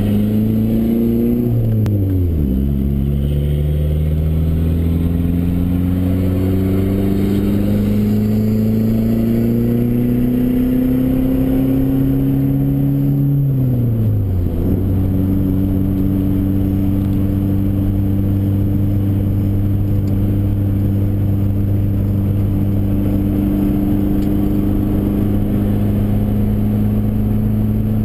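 Dodge SRT-4's turbocharged 2.4-litre four-cylinder engine under acceleration: revs climb, fall with a gear change about two seconds in, climb slowly for about eleven seconds, fall again with another shift, then hold steady.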